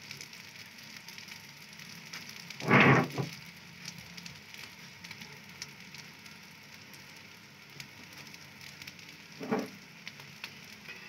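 Beef shami kababs shallow-frying in a little oil on a flat tawa: a steady, faint sizzle with fine crackling spatter. A brief louder noise comes about three seconds in, and a smaller one near the end.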